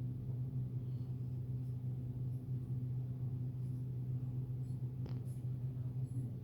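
Steady low hum, with a few faint, very high squeaks and light scratching sounds over it, and one faint click about five seconds in.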